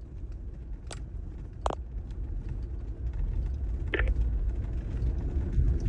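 Jeep driving slowly on a rough backroad: a steady low engine and road rumble that grows a little louder, with a few sharp knocks.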